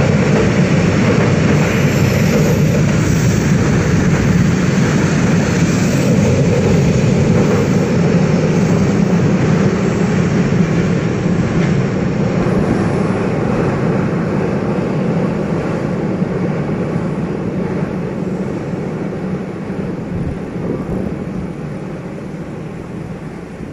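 Diesel-hauled passenger train crossing a bridge: a steady, dense rumble of the train running over the rails. It grows gradually fainter over the last ten seconds or so.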